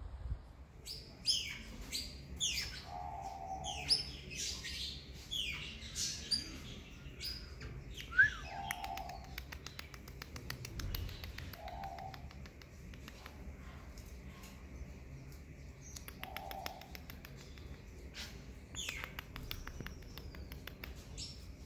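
Birds chirping: many short, sharp calls that fall in pitch, with a lower, shorter call coming four times a few seconds apart and stretches of rapid ticking.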